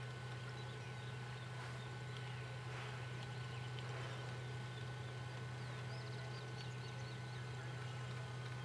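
Faint, short bird calls over a steady low hum, with a quick run of calls about six seconds in.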